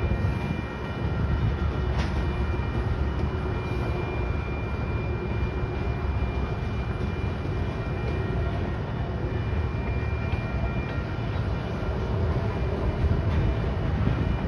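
Freight train of covered hopper cars rolling past, a steady low rumble of steel wheels on rail, with faint steady high tones over it and a single sharp click about two seconds in.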